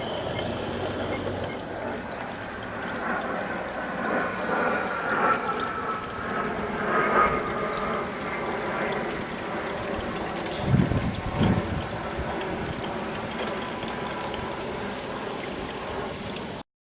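A large-scale (G gauge) model train running on a garden railway layout, against a cricket chirping steadily, about three chirps a second. The sound cuts off abruptly near the end.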